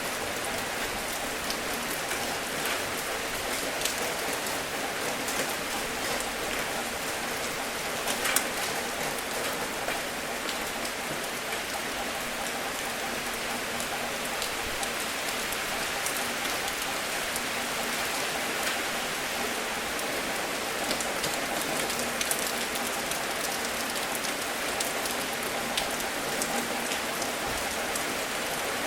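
Steady rain falling, an even hiss with scattered individual drop hits and one sharper hit about eight seconds in.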